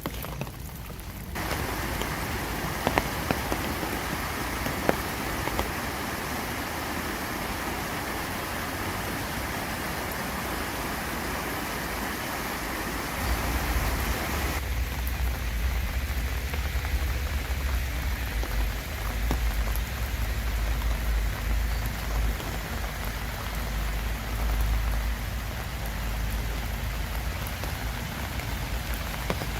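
Steady rain falling, with scattered louder drops ticking on a surface. About halfway through, the sound changes: a deep low rumble comes in under the rain and the middle hiss thins out.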